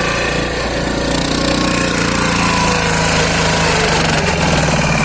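Lombardini diesel engine of a pat-pat two-wheel tractor running hard under load with a fast, even chugging, as the machine climbs a steep slope.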